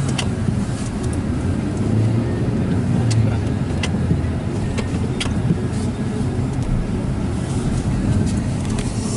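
Motor vehicle engine running with a steady low rumble, with a few sharp clicks scattered through it.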